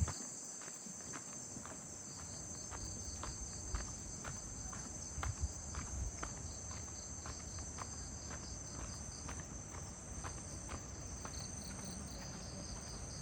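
Dusk chorus of crickets and other insects, a steady high-pitched shrill with a rapid pulsing chirp beneath it, over footsteps on a path at about two steps a second.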